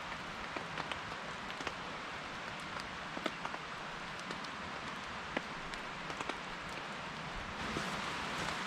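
Steady heavy rain, with many separate drops landing as sharp ticks over the hiss of the downpour.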